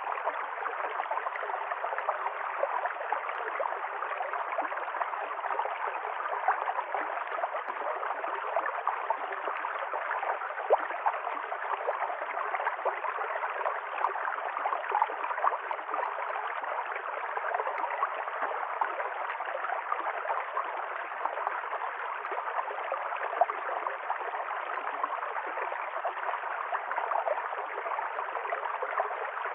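River stream flowing steadily, water gurgling and splashing over rocks in an even rush.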